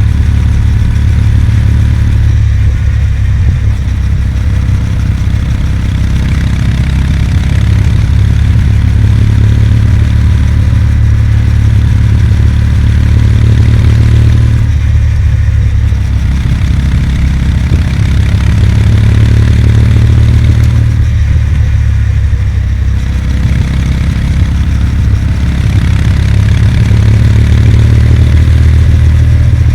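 Kawasaki W800's air-cooled parallel-twin engine running as the motorcycle is ridden along, with a steady rush of wind. The sound eases off briefly three times: about two seconds in, around the middle, and about two-thirds of the way through.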